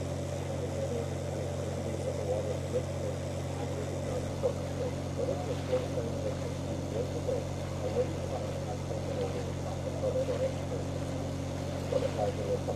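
A boat's engine running steadily at constant speed: an even low hum with a fluttering, busier layer above it.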